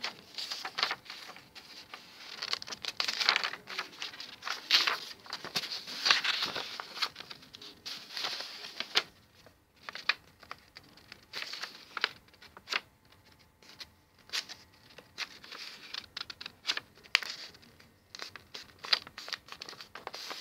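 A4 printer paper being folded and creased by hand: irregular rustling and crinkling with sharp little creasing strokes, busiest in the first half.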